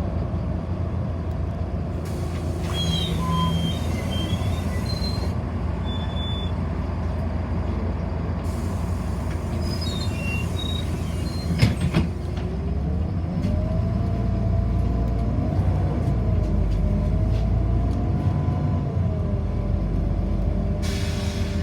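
Cabin noise of a city bus on the move: a steady low rumble, with one sharp knock about halfway through and a whine that rises and falls in pitch over the second half.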